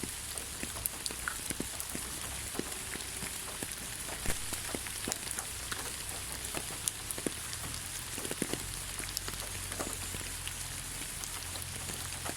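Rain falling on the ground: a steady hiss with individual drops ticking at irregular moments.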